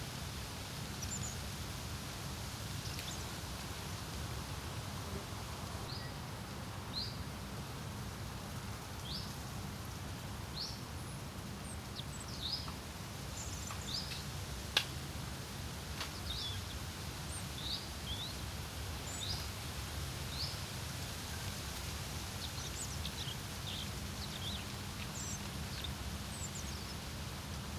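Wind rumbling steadily on the microphone while small songbirds give short, high chirps again and again, with a single sharp click about fifteen seconds in.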